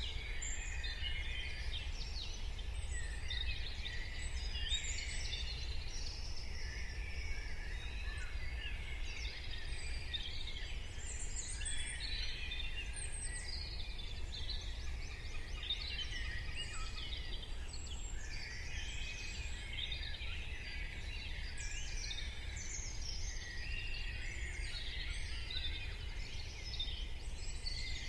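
Morning chorus of many songbirds chirping and singing at once, dense and overlapping throughout, over a steady low rumble.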